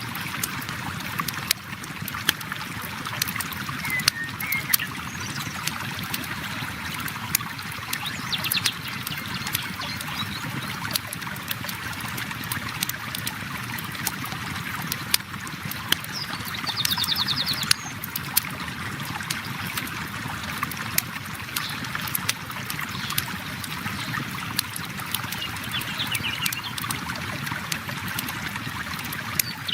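River water flowing steadily, with a campfire crackling in frequent sharp snaps. A few short bird trills come through, about a third of the way in, around the middle and near the end.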